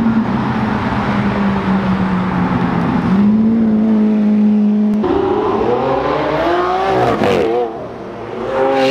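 Lamborghini Aventador V12 engine sound in a string of short clips: a steady engine drone for about five seconds, then an engine accelerating with rising pitch that wavers and drops back about seven seconds in.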